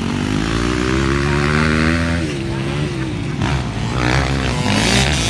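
Suzuki RM-Z250 motocross bike's four-stroke single-cylinder engine revving up and down as the throttle is worked: the revs climb over the first two seconds, fall back, then pick up again near the end.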